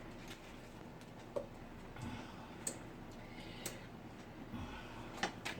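Raw chicken pieces being laid into a Dutch oven: a handful of faint, irregularly spaced clicks and soft knocks.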